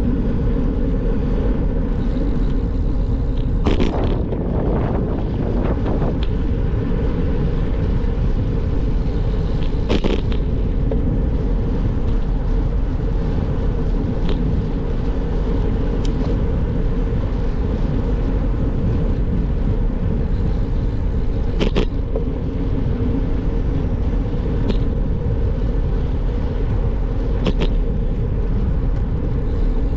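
Steady low rumble of wind buffeting the microphone and road noise from a bicycle riding along, with a few sharp clicks or knocks scattered through.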